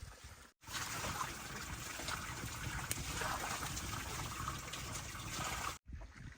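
Water trickling and splashing, a steady hiss that starts abruptly about half a second in and cuts off suddenly near the end.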